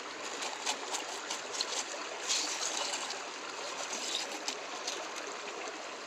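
Steady running water, with irregular clicks and splashes as gravel and stones shift in a hand screen being washed for gems. The clicks thin out after about five seconds.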